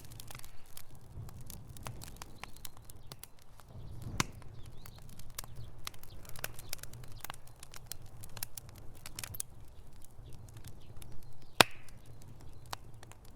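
Wood fire crackling in a fireplace: irregular sharp pops and snaps over a low, steady rumble of flames, with one louder pop near the end.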